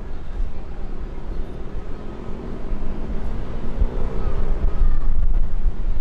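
Jet airliner's engines running as it passes, with faint gliding engine tones in the middle, over a steady low rumble that gets louder near the end.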